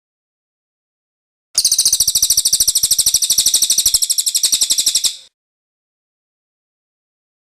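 Cililin bird singing one fast, rolling trill of rapidly repeated high notes, lasting about three and a half seconds. The trill starts about one and a half seconds in and stops abruptly, with dead silence around it.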